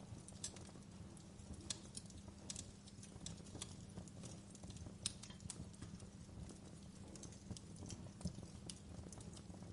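Wood fire crackling in a fireplace: a steady low rumble of burning with irregular sharp pops and snaps, one louder pop about five seconds in.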